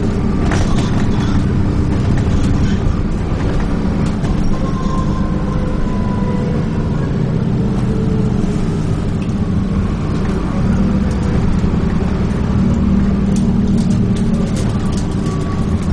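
Dennis Trident 2 double-decker bus driving along, heard from on board: its engine runs steadily, the pitch slowly rising and falling with speed, and there are a few short clicks.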